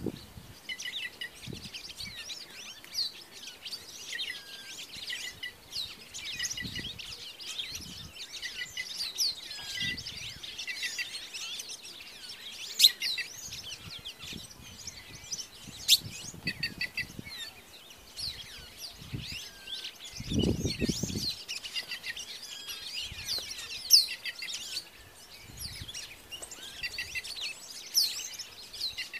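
Several wild birds chirping and calling at once, a dense chorus of short overlapping notes with a few sharp, louder calls. A brief low rumble about two-thirds of the way through.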